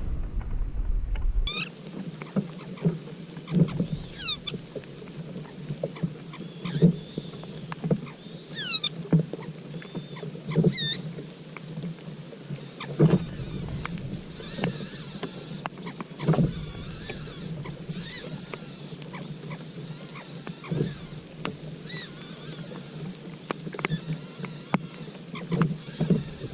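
High-pitched bird calls: a few quick sweeping whistles at first, then shrill peeping repeated in runs, with scattered soft knocks and rustles.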